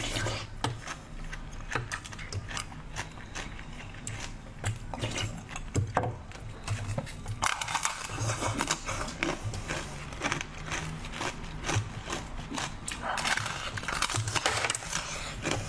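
Close-up crunching and crackling of a frozen, icy blue treat being bitten and chewed, many sharp crackles over dull chewing thuds, busier in spells about eight and thirteen seconds in.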